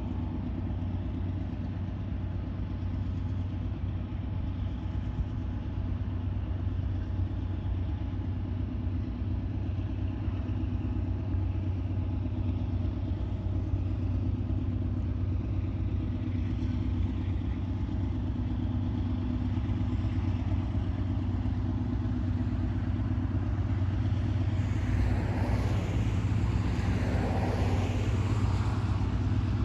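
Diesel locomotive engine running with a steady low drone, slowly growing louder. Near the end a louder rushing, clattering noise of the train joins in.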